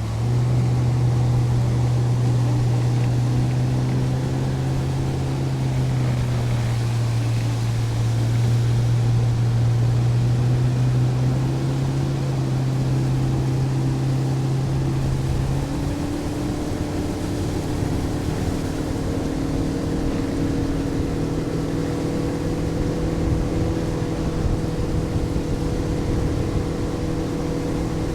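Motorboat engine running steadily under way, with water and wind noise. About halfway through, the engine note changes and settles at a higher pitch.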